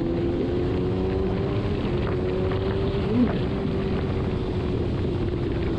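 Kawasaki Ninja ZX-6R inline-four engine cruising at a steady highway pace, its note holding nearly level, under heavy wind rush on the microphone. A short blip sounds about halfway through.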